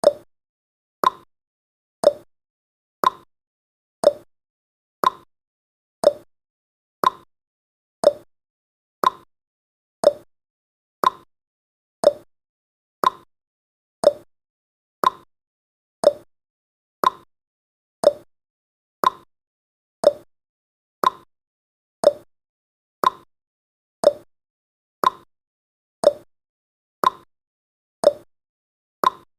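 Clock ticking sound effect of a countdown timer: short, sharp ticks, one each second, at a steady, even pace.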